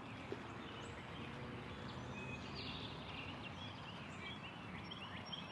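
Quiet outdoor background with a steady low hiss and small birds chirping faintly now and then.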